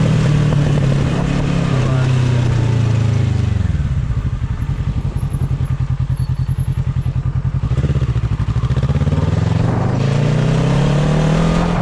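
Motorcycle engine under way, then the revs drop as it slows to a steady, pulsing idle for about six seconds, and climb again as it pulls away near the end.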